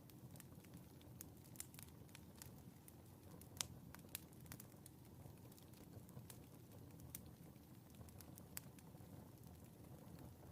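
Wood fire crackling faintly in a fireplace: scattered sharp pops and ticks over a low, steady rumble, with one louder pop about three and a half seconds in.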